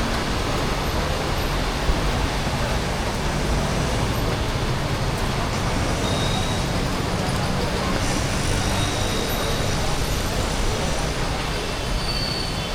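Street traffic in the rain: vehicle engines running and passing under a steady hiss of rain and wet road noise.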